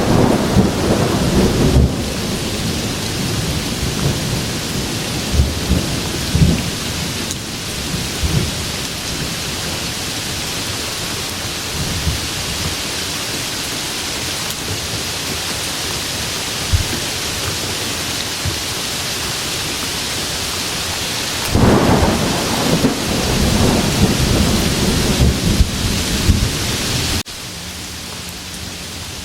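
Steady rain falling in a thunderstorm, with rolling thunder rumbling near the start and again for several seconds past the three-quarter mark. Near the end the sound cuts suddenly to a quieter, even hiss.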